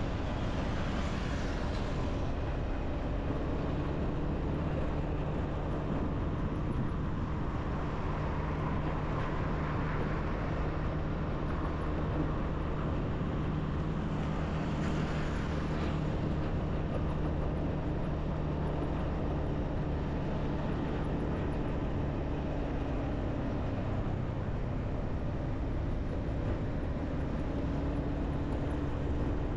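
Motorbike engine running at a steady speed with a constant hum and road noise, heard from the rider's seat. Brief hissing swells come about a second in and again halfway through.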